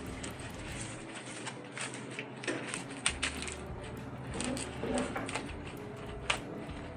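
An HVAC air filter being handled and squeezed into place: irregular clicks, knocks and crinkling. Underneath is a low hum that cuts out for about two seconds, roughly a second in.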